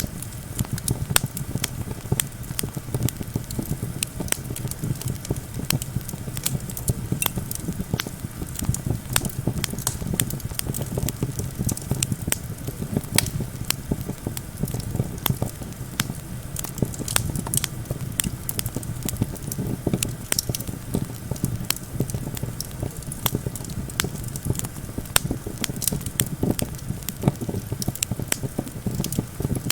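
Wood campfire crackling, with many irregular sharp pops and snaps over a steady low rumble of wind.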